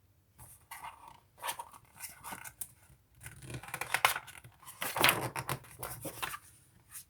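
Paper rustling and crackling in a run of irregular scrapes and clicks, like the pages of a picture book being handled and turned, loudest about halfway through.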